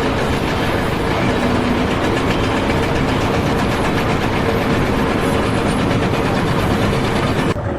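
A heavy engine or machine running steadily and loudly. It cuts off abruptly near the end.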